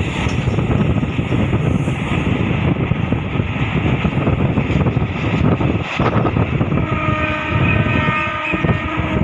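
Passenger train running on the track, its rumble and wind noise heard through an open coach window. About seven seconds in, the train's horn sounds a steady, chord-like blast that lasts about two seconds.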